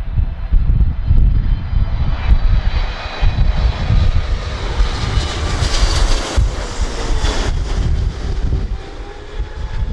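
Wide-body jet airliner's engines on landing approach, the whine and rush growing to a peak about six seconds in, then falling in pitch as it passes. Heavy crosswind buffets the microphone.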